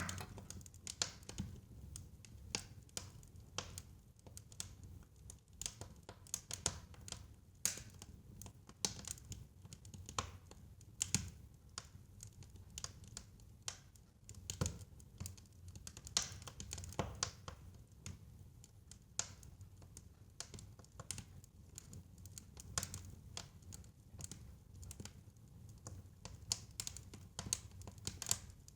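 Wood fire crackling in a fireplace: irregular pops and snaps over a low steady rumble of burning.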